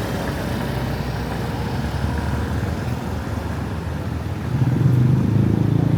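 Street traffic with vehicle engines running; one engine grows louder about four and a half seconds in as a vehicle comes close.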